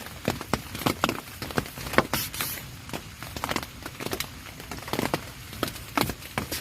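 Raindrops tapping irregularly on a tent, several sharp taps a second over a steady light hiss of rain.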